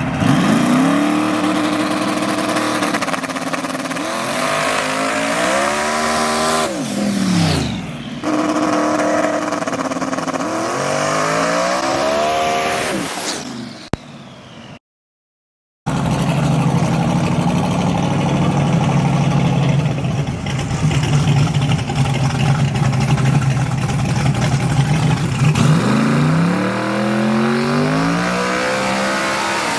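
V8 truck engine revving and accelerating, its pitch climbing and dropping back several times. After a brief cut it runs steady, then climbs again near the end.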